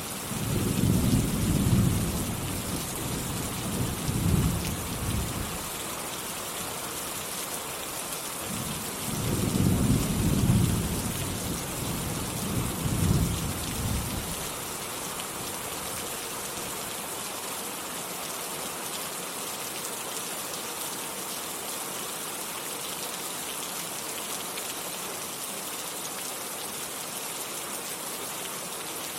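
Steady rain with two low rolls of thunder, the first in the opening few seconds and the second from about nine to fourteen seconds in; after that only the steady rain.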